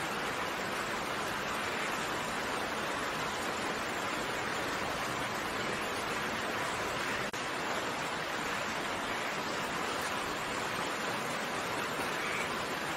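Steady, even rain hiss with no distinct drops standing out. There is a brief drop-out just past halfway.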